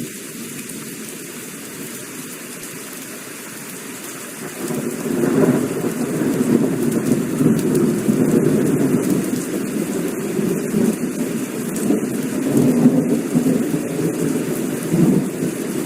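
Heavy rain falling steadily, with thunder rolling in about four and a half seconds in and rumbling on, louder, through the rest.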